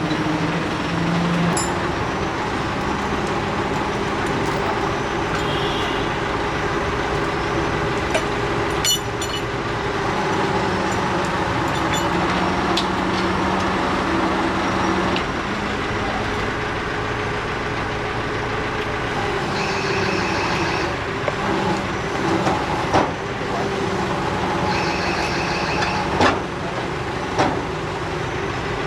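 A heavy machine's engine running steadily, with occasional sharp metallic clicks and knocks and a few short high-pitched squeals.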